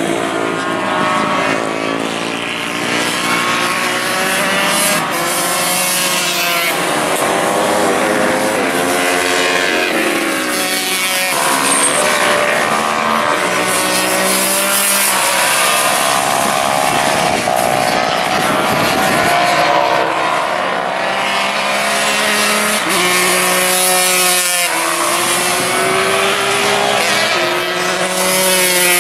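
Several small-capacity road-racing motorcycles (125 cc and Supersport 300 classes) running hard at high revs. Their engine notes overlap, climbing through the gears and dropping in steps at each shift.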